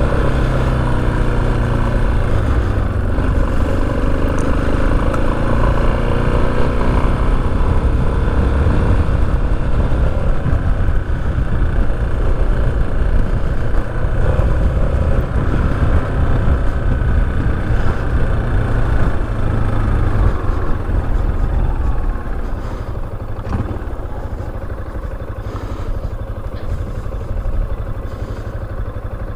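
Motorcycle engine running while riding, its pitch rising and falling with the throttle. A little after three-quarters of the way through it gets quieter, easing off toward idle.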